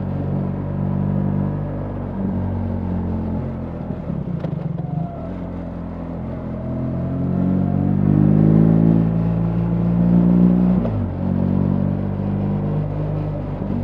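BMW R 1300 GS boxer-twin engine running under way: the revs dip about four seconds in, then climb steadily for several seconds before falling sharply at a gear change about eleven seconds in.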